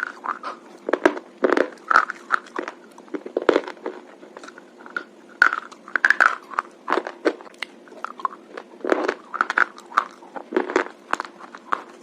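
A crunchy Bebo SP Bar being bitten and chewed: irregular sharp crunches, several a second, with short pauses between bites.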